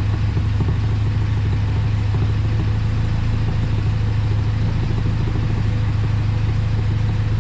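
1979 Alfa Romeo Spider's twin-cam four-cylinder engine, on Megasquirt fuel injection, idling steadily at about 700 rpm. The engine is still cold.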